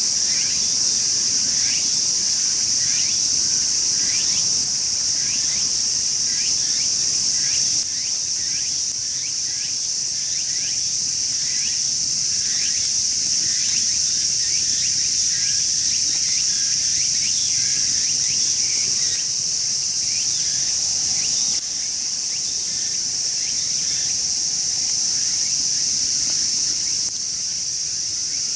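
Outdoor insect chorus: a dense, steady high-pitched drone with a short repeated chirp about twice a second over it. The level drops a little, suddenly, a few times.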